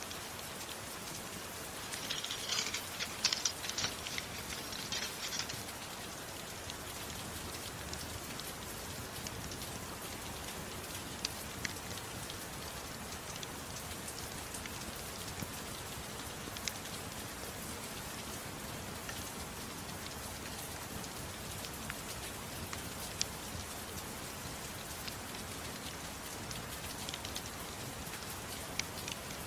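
Soft, steady rain, an even hiss of drops. About two seconds in there are a few seconds of denser crackling, and a few single sharp ticks stand out later.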